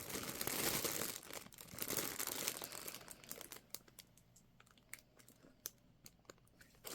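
Crinkling and rustling as a paper parrot toy is handled, for about three seconds. It then dies down to a few faint clicks and taps.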